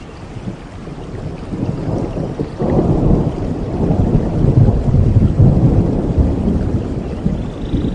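Thunder rumbling during a rainforest thunderstorm, a low rumble that swells about two and a half seconds in and slowly fades, with rain falling steadily underneath.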